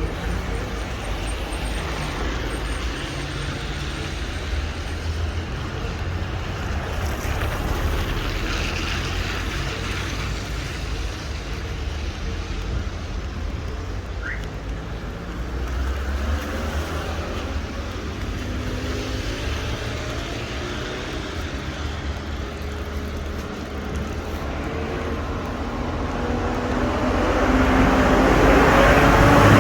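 Steady road traffic on a wet street in the rain, engines and tyres running, with a vehicle passing close and growing louder near the end.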